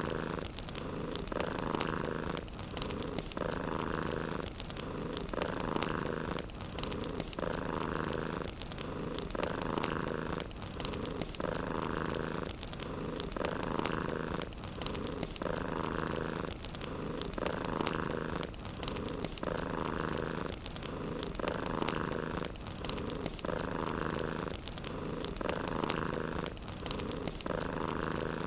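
Domestic cat purring steadily, swelling and fading about once every two seconds with its breathing, over the fine crackle of a wood fire.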